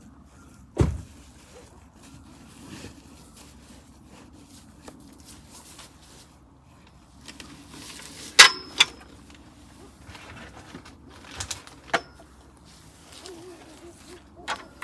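Camping gear being handled and packed up: a few scattered knocks and clanks, a low thump about a second in and the loudest, a sharp ringing clank, about eight seconds in.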